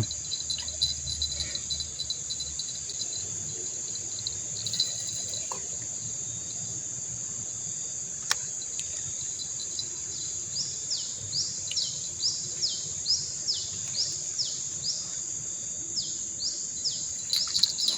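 Steady high-pitched chorus of insects along a riverbank. About ten seconds in, a bird joins with a run of quick falling whistled notes, about two a second.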